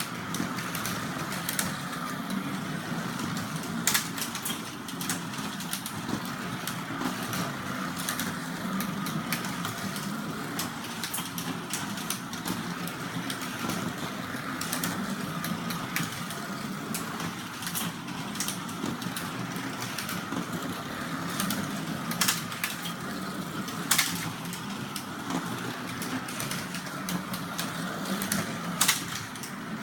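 Carrera slot cars running laps, their small electric motors whirring steadily with the rattle of the cars on the plastic track. Sharp clicks stand out a few times, loudest about four seconds in, twice past the twenty-second mark and near the end.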